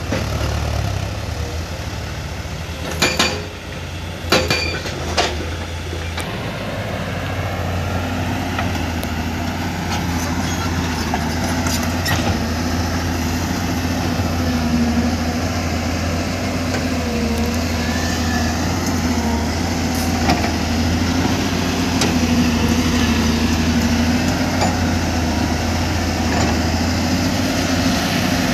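Heavy diesel engine of a construction machine running steadily, its note strengthening slightly about eight seconds in. A few sharp metallic clanks sound about three to five seconds in.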